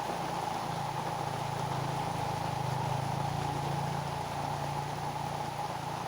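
Heavy rain falling on green leaves: a steady, even hiss of drops, with a low steady hum underneath.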